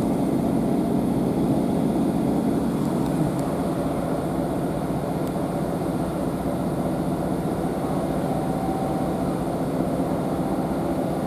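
Interior running noise of a Northern Class 150 diesel multiple unit, heard from inside the carriage: a steady drone from the underfloor diesel engine and the wheels on the track as the train runs.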